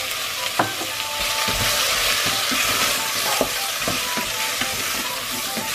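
Diced zucchini and flour sizzling steadily in hot oil in a stainless steel pot as a wooden spoon stirs, knocking sharply against the pot several times. The flour is cooking in the fat as a thickener.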